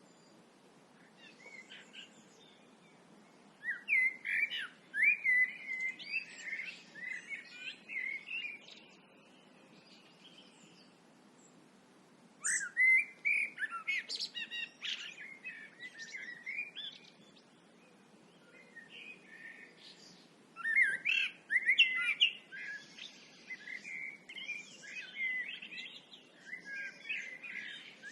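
Songbirds singing at dusk in three spells of quick warbled phrases, with short pauses between, over faint low background noise.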